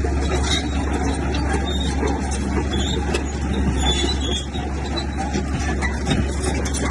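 Heavy earthmoving machinery running steadily: a diesel engine's low drone under a constant mechanical rattle, with a few short knocks.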